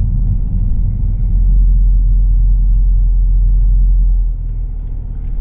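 Low, steady road and engine rumble of a car driving, heard from inside the cabin; it eases off about four seconds in.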